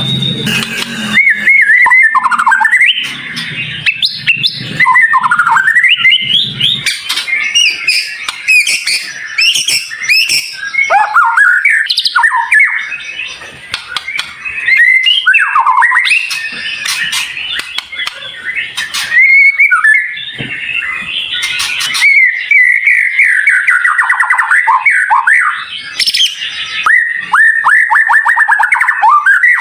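White-rumped shama (murai batu) singing a fast, varied song of high sliding whistles and quick trills, broken by a few short pauses, with a rapid run of repeated notes near the end.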